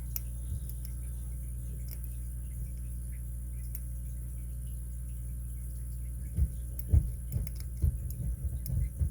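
Steady low hum, then from about six seconds in, irregular light clicks and soft knocks as a pick and tension wrench work the pins of a Master 930/950 padlock's six-pin core.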